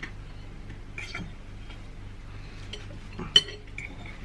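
Light taps and clinks of cutlery against dishes while eating, with one sharper clink a little over three seconds in.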